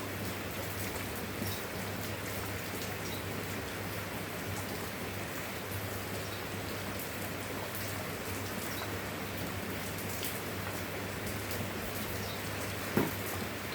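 Steady rain falling, with scattered individual drops ticking. One sharp, louder drop lands near the end. A faint steady low hum runs underneath.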